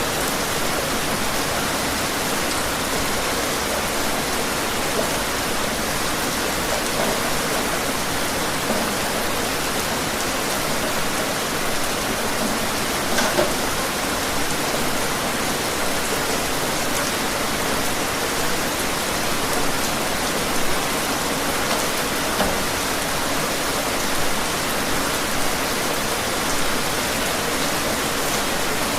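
Steady rain falling outdoors, an even hiss with scattered louder drips or taps, the most distinct about 13 seconds in.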